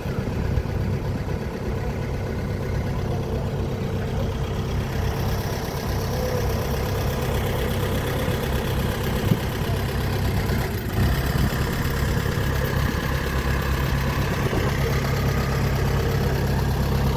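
An engine running steadily with a low drone, getting a little louder about eleven seconds in.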